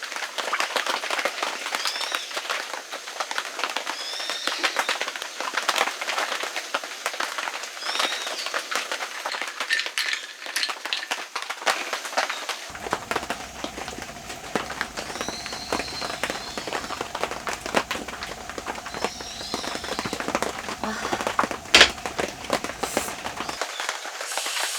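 Steady pattering of rain, with birds chirping now and then; about halfway through a low hum joins in for some ten seconds.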